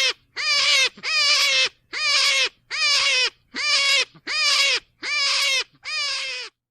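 Rabbit calling in a regular series of about eight wavering, high-pitched cries, each under a second long and a little under a second apart, stopping suddenly near the end.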